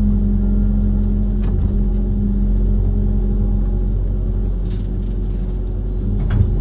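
An amphibious excavator's diesel engine runs steadily with a low rumble. A few short knocks come through over it, the loudest near the end.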